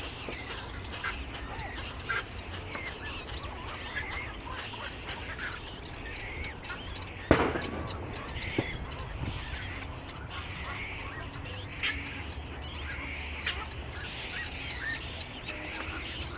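Many birds chirping and calling at once, short overlapping calls with no pause. There is a single sharp knock about seven seconds in, over a steady low rumble.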